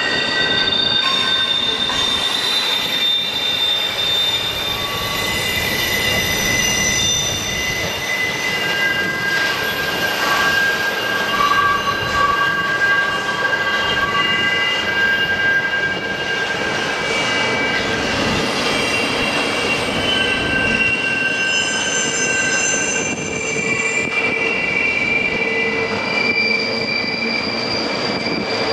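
Train wheels squealing on the rails as the train rolls along: several high, shrill tones that come and go over a steady rumble.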